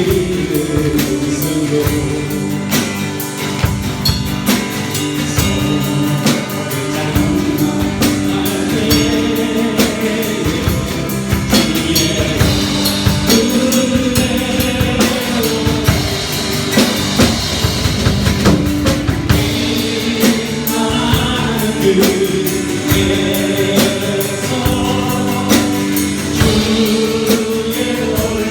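Live worship band playing a gospel praise song with singing over drum kit and instruments.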